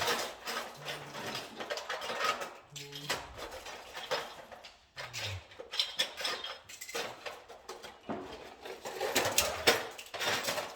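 Irregular clinks, clicks and scraping from hand tools and small parts being handled during electrical panel wiring work.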